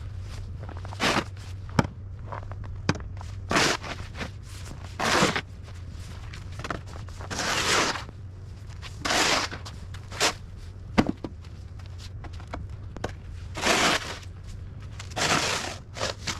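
Snow crunching and scraping in irregular bursts every second or two, with sharp clicks in between, over a steady low hum.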